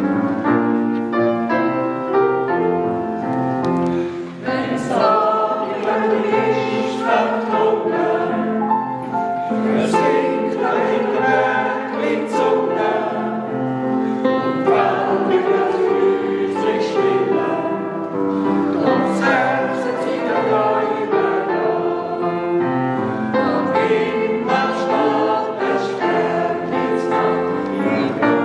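Choir singing a song, accompanied by piano.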